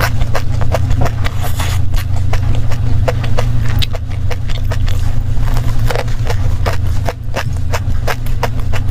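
Close-miked chewing of a grain-coated dessert: a steady run of sharp crunching clicks, about three a second, over a steady low hum.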